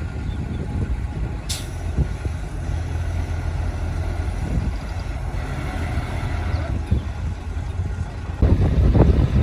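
Heavy diesel earthmoving machinery running with a steady low rumble. A short hiss of released air comes about a second and a half in, and the engine grows louder with irregular knocks and clanks from about eight and a half seconds.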